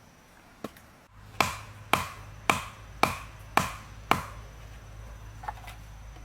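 Six sharp, evenly spaced chopping strikes on wood, about two a second, each ringing briefly, with a lighter knock before and after.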